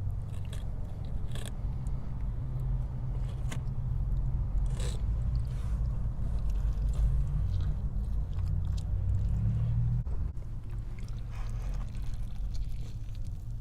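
A person chewing and biting into a burrito close to the microphone, with scattered short wet mouth clicks and smacks, over a steady low hum.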